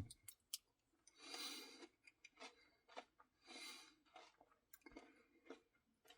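Faint chewing and mouth sounds of someone eating a cookie-filled ice cream Blizzard: two short wet, hissy bursts with scattered small clicks between them.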